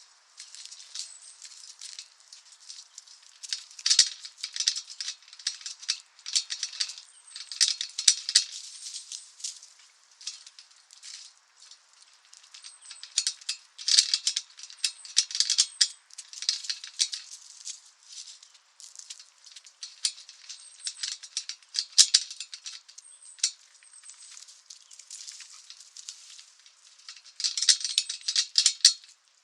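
Rapid dry crackling and clicking in irregular bursts, with a few faint high chirps in between.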